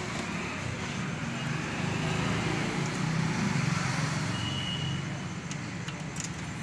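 Steady background vehicle and traffic rumble, with a few light clicks near the end.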